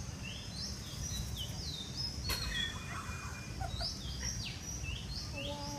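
Birds chirping over and over in short, quick high calls that sweep up and down, over a steady low background rumble.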